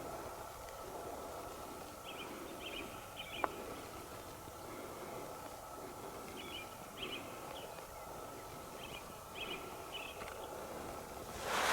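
A small bird singing short phrases of about three high chirps, repeated three times at intervals of three to four seconds, over a steady outdoor background. A single sharp click comes about a third of the way in, and a brief louder rushing sound near the end.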